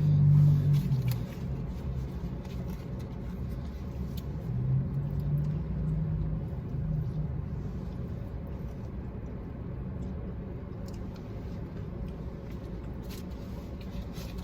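Low, steady vehicle rumble with a humming tone that swells about five seconds in and fades again, with a few faint clicks.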